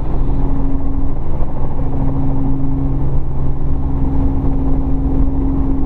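Robinson R44 helicopter's piston engine and rotors running in a landing hover, heard inside the cockpit: a steady drone with two constant hums, one pitched about twice the other.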